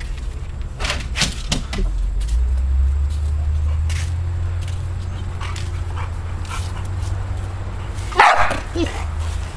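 A dog barking at birds in short, scattered barks, the loudest near the end, over a steady low rumble.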